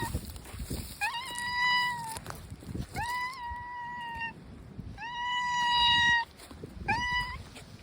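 A cat meowing four times in long, level, drawn-out calls about two seconds apart, the last one short.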